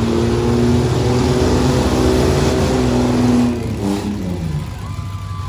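Demolition derby trucks' engines revving hard over a steady low rumble; the revs hold, then drop about three and a half seconds in.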